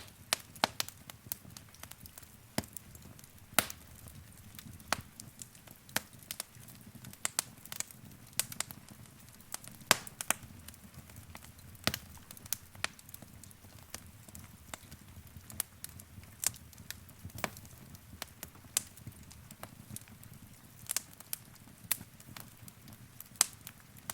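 Wood fire in a fireplace crackling, with sharp pops and snaps at irregular intervals over a low, steady rumble of the flames.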